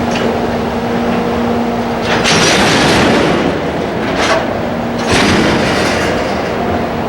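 Freight train of empty oil tank wagons hauled by two EF64 electric locomotives, running with a steady hum and a few steady tones, broken by three louder bursts of hiss about two, four and five seconds in.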